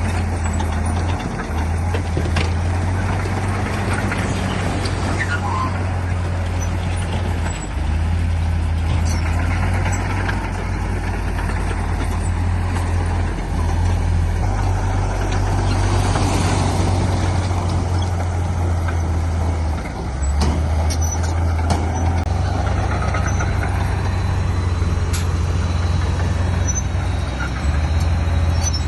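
Diesel engines of heavy earthmoving machinery running under load: a deep, steady drone whose pitch steps up or down every few seconds.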